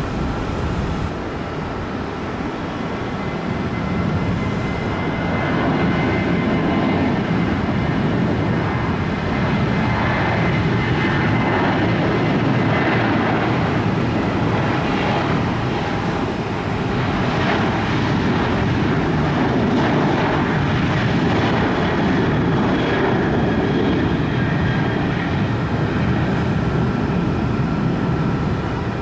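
Airliner engines running loud and steady, a dense rush with a faint whine on top, swelling about four to six seconds in and holding there.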